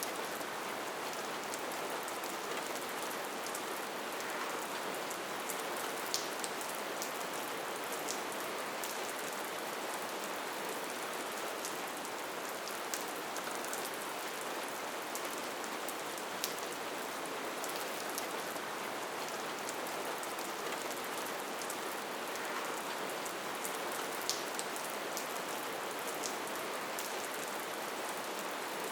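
Steady rainfall, an even hiss of rain with scattered sharper drop taps.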